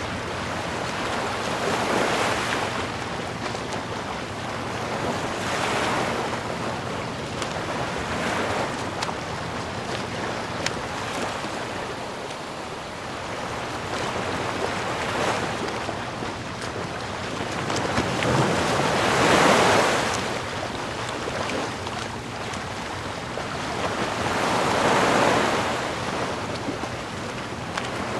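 Sea waves washing in, a steady rush that swells and falls back every few seconds, with the biggest surges about two-thirds of the way through and near the end.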